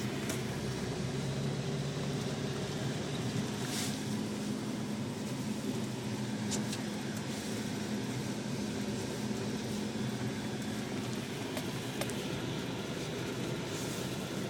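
A steady low mechanical hum, like a running engine or motor, with a few faint clicks.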